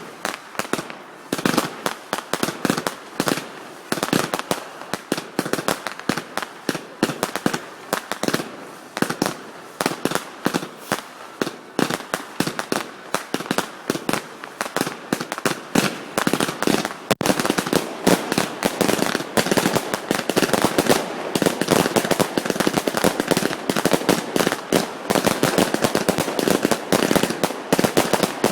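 Fireworks display: a rapid, unbroken string of bangs, several a second, becoming denser and more continuous a little past halfway.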